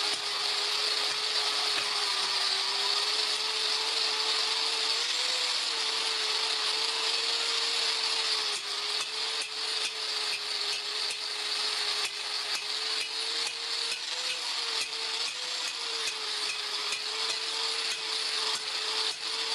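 Electric grinder working steel: a steady motor whine that wavers slightly in pitch, under a harsh grinding hiss. Many small ticks come through in the second half.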